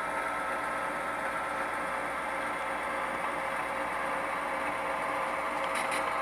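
Tsunami 2 sound decoder in an HO-scale Proto 2000 GP38-2 model locomotive playing a steady EMD diesel engine sound through its small onboard speaker, with two brief high-pitched blips near the end.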